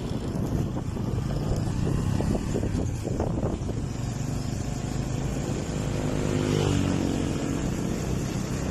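Motorcycle engine running steadily, its note shifting in pitch about two thirds of the way through.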